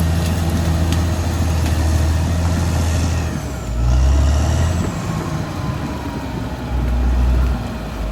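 Caterpillar D6R XL bulldozer's diesel engine running steadily under load, then surging louder twice, about four seconds in and again near seven seconds.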